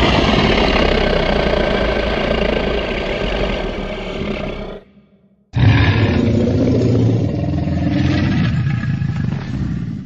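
Tyrannosaurus rex roar sound effect, heard twice: a long roar lasting almost five seconds, a short silence, then a second long roar with a deeper rumble.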